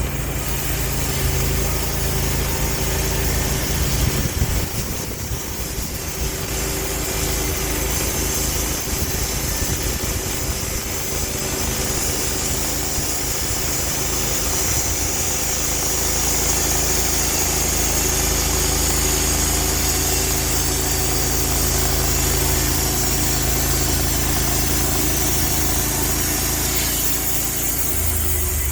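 Sawmill running steadily with its engine under load and a high hiss of the blade cutting through a log. The hiss drops away near the end.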